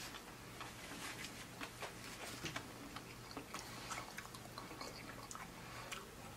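Close-miked chewing of fried seafood: faint, irregular wet mouth clicks and smacks.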